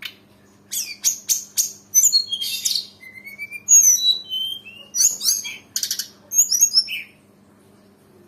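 Tledekan gunung singing a fast, varied song of high chirps, short whistled glides and trills, packed with borrowed phrases (full isian). It breaks off about a second before the end.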